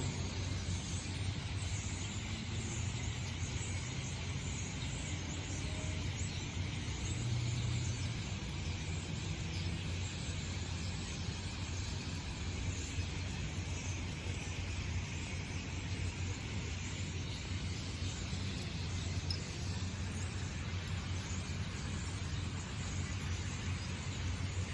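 Steady outdoor background noise: a low rumble with an even hiss over it, without any distinct bird calls or sudden sounds.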